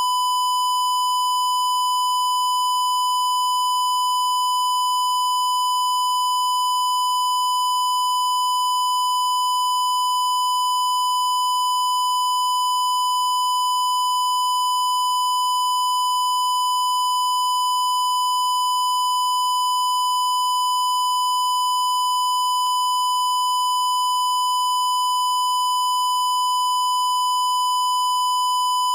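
A continuous electronic beep tone, high and steady in pitch and level, held without a break. It has a slightly buzzy edge, and there is a faint click about two-thirds of the way through.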